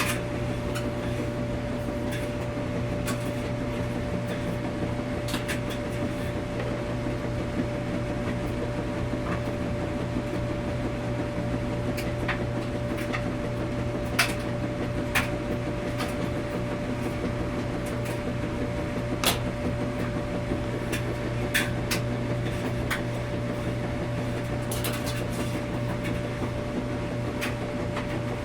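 Washing machine running with a steady low hum and a constant mid-pitched tone, with irregular light clicks and knocks every second or two.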